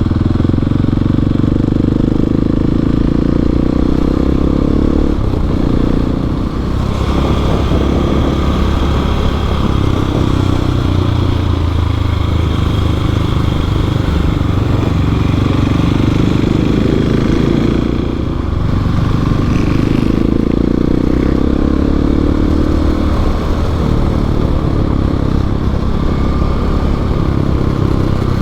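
Adventure motorcycle engine running on the move, its revs rising and falling, with two brief dips in level, one about six seconds in and one around eighteen seconds.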